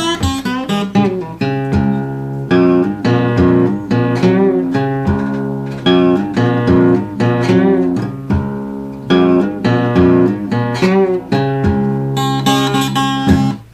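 Solo guitar playing an instrumental passage of a slow delta blues, picked bass notes under treble notes, without singing.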